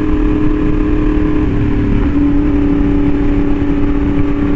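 Yamaha R1M's crossplane inline-four with an SC Project exhaust running at a steady cruise, heard from the bike with wind rush. The engine note wavers and settles slightly lower about two seconds in.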